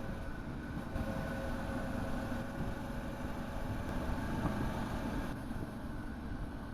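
Motorcycle engine running steadily on the move, with low rumble from wind and road underneath.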